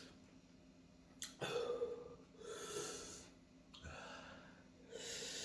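A man breathing heavily, about four slow breaths in and out through the mouth, while his mouth burns from eating raw bird's eye chillies. A short sharp click comes just before the first breath.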